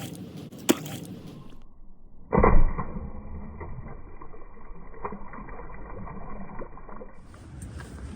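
Water splashing as feet stomp through rain puddles, with one loud splash about two and a half seconds in.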